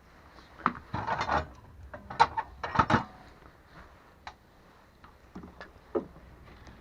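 A cluster of knocks and short scraping noises about a second to three seconds in, followed by a few scattered clicks, like things being handled and set down.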